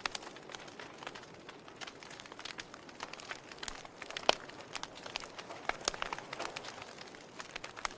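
Fire crackling and popping: irregular sharp snaps over a low steady rush of flames, with one louder pop about four seconds in.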